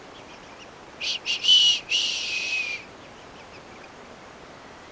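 Bantam rooster crowing once: a shrill, high-pitched crow of two short notes and a rising middle note, ending in a drawn-out note that falls slightly.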